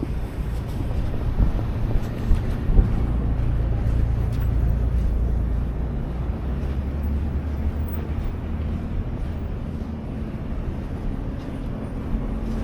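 Low rumble of road traffic with wind buffeting the microphone; a few brief gusts or thumps come in about two to three seconds in.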